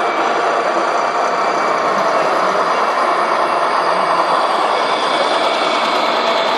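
Steady engine-like running noise with no breaks, of the kind made by the diesel sound modules in 1:14 RC model trucks.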